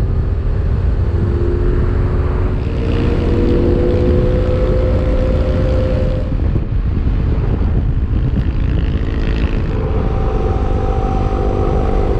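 Motorcycle engine running at road speed under heavy wind rumble on the microphone. The engine note climbs slowly a few seconds in, then comes back at a higher pitch near the end.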